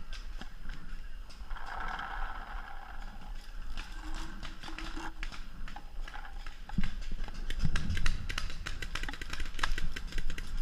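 Paintball markers firing, a rapid scatter of sharp pops that grows denser in the second half.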